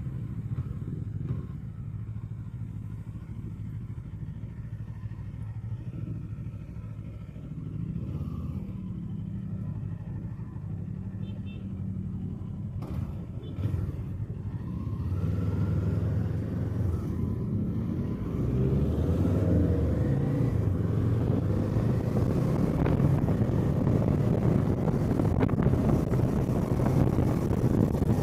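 Kawasaki Eliminator SE's parallel-twin engine running on the move, its pitch rising and falling with the throttle and gear changes. From about two-thirds of the way in it gets louder, with more wind and road noise as the bike picks up speed.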